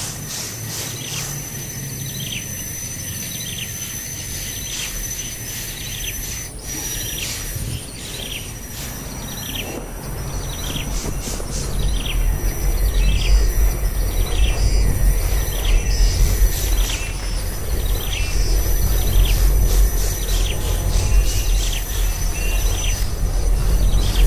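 A bird chirping over and over, short falling chirps repeating every second or so, over a steady high insect-like whine. About halfway through, a low rumble rises and becomes the loudest sound.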